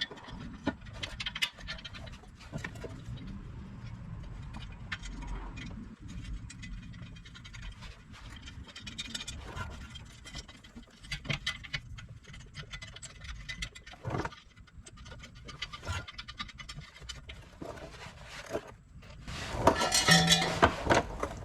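Exhaust pipe sections scraping and clunking as they are worked into place under a car for a loose test fit, with irregular knocks and clicks of metal on metal and a louder burst near the end.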